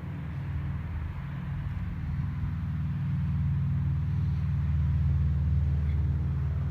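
A vehicle engine's low, steady hum, growing louder over the first few seconds and then holding.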